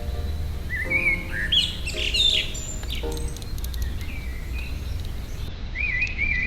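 Small garden birds chirping in quick, high calls, in a burst about a second in and again near the end, over a steady low background rumble.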